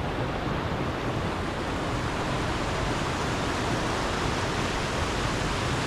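Steady rush of flowing stream water, an even noise with no breaks or separate events.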